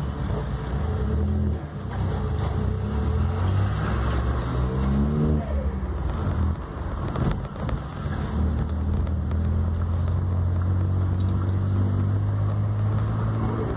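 Car engine heard from inside the cabin while driving, most likely the VW up! TSI's small turbocharged engine. It revs up in a rising pitch about five seconds in, drops off sharply as if on a gear change, then settles into a steady low drone.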